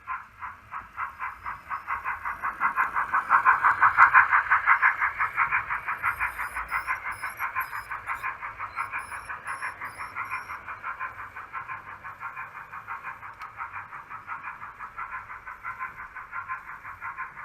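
Steam-exhaust chuffing from the DCC sound decoder's small speaker in a 00 gauge BR Standard class 4 tank locomotive model, running in a steady, even rhythm. It swells to its loudest about four seconds in, then slowly fades.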